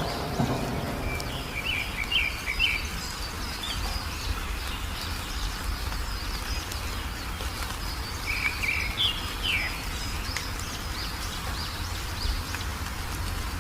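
Wild songbirds chirping in two short quick bursts, about two seconds in and again about eight seconds in, over a steady row of high chirps and a low rumble.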